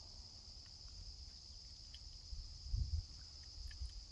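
Steady, high-pitched insect chorus of crickets, with a few faint clicks and low bumps about the middle.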